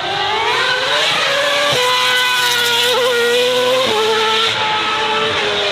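Racing car engine at full throttle: the revs climb over about two seconds, hold high, then drop sharply about four seconds in.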